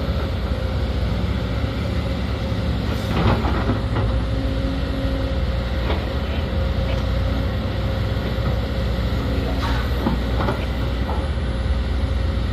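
Sumitomo SH210 hydraulic excavator's diesel engine running steadily under work, with a few clattering knocks about three seconds in and again around ten seconds.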